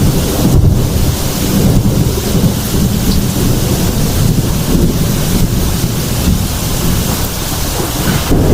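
Heavy rain pouring with a continuous low thunder rumble.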